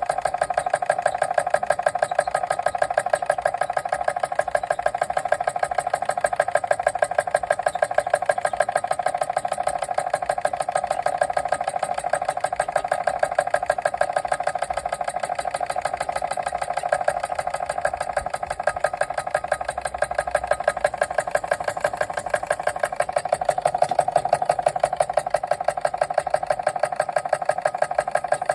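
Machinator Steamfire model steam engine running steadily under steam, its strokes beating rapidly and evenly.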